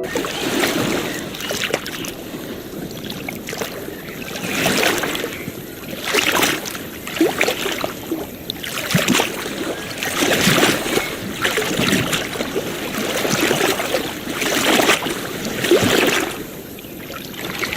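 Small sea waves washing onto a beach, a hissing surge that swells and falls back every couple of seconds.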